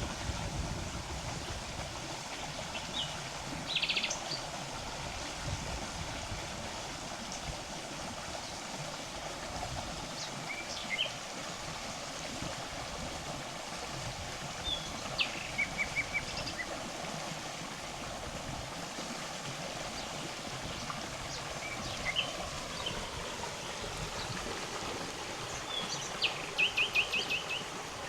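A river flowing steadily, with small birds calling and singing now and then over it: scattered short calls, and two quick runs of repeated notes, one about halfway through and one near the end.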